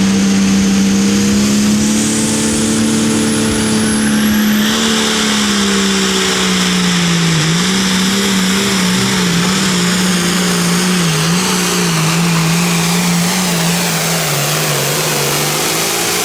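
Tractor-pulling tractor's engine held at full throttle under load as it drags the sled, with a thin high whistle rising a couple of seconds in; from about seven seconds in the engine note sags and wavers as the load builds.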